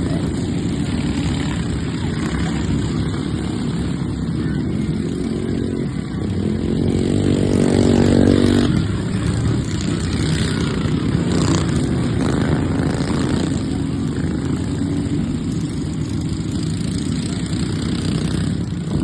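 Engines of racing stock riding lawnmowers running at speed, a steady drone of several machines. About seven seconds in one mower passes close, its engine note louder and clearer for a couple of seconds before fading back into the pack.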